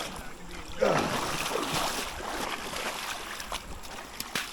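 Rushing river water with wind buffeting the microphone, and a sudden louder noise about a second in.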